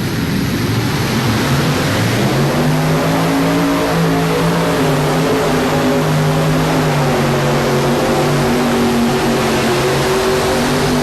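Modified pulling tractor with four transverse-mounted Chevrolet engines running at full throttle under load during a pull. The loud, dense engine note climbs in pitch about two seconds in, then holds fairly steady.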